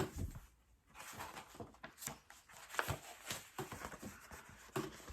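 Soft rustling and small irregular taps of a paper picture book being handled as a page is turned.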